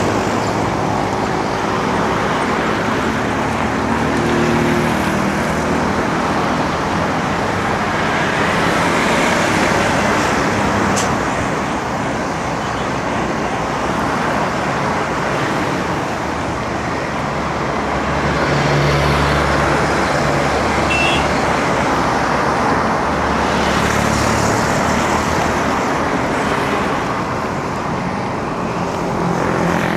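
Steady road traffic noise heard from a bicycle in town: motor vehicles running and passing close by, with a louder engine hum about 18 to 20 seconds in.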